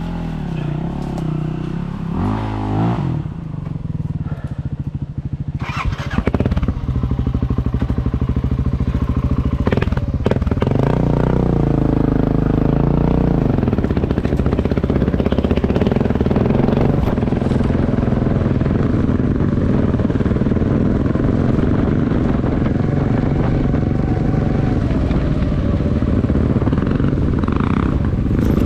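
Motorcycle engine running while riding, its pitch climbing a few seconds in and again around a third of the way through as it changes gear. After that it pulls steadily and louder.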